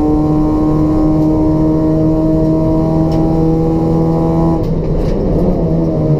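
Toyota Etios race car's 1.5-litre petrol engine with a free-flow exhaust, pulling hard at high revs with its pitch creeping slowly upward. About four and a half seconds in, the steady note breaks up and wavers, then settles onto a lower note.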